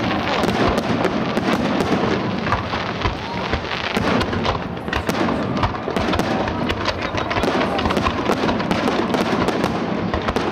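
Fireworks display: a dense, continuous run of bangs and crackles from aerial shells and barrage effects fired in quick succession, with no pause.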